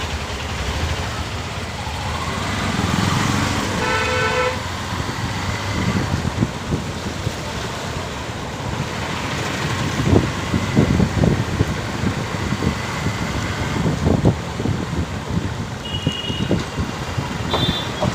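Steady road and wind noise of a motorcycle ride through traffic. A vehicle horn honks once about four seconds in, and two short high toots sound near the end.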